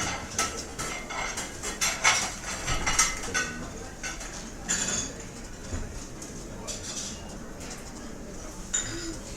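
Restaurant ambience: cutlery and dishes clinking, a quick flurry of clinks in the first few seconds, then single clinks now and then over a steady background din.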